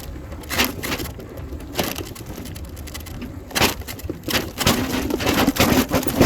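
Bicycle and its handlebar-mounted phone rattling and jolting over bumps in a paved trail. There are a few separate jolts, then a rapid run of them near the end.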